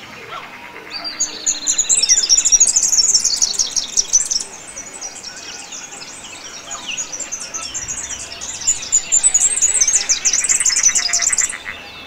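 Wetland birds singing: two loud bouts of rapid, high chirping and trilling, one starting about a second in and another from about eight and a half seconds. A falling whistle comes near the start and a fast, buzzy rattle comes near the end.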